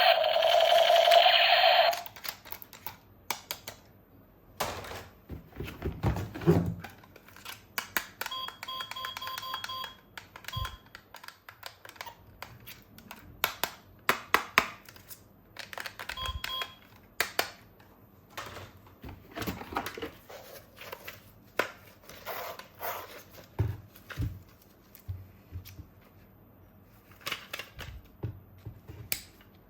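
Plastic toy pieces clicking and knocking as they are handled. A loud warbling electronic tone plays in the first two seconds, and short runs of faint electronic beeps come twice.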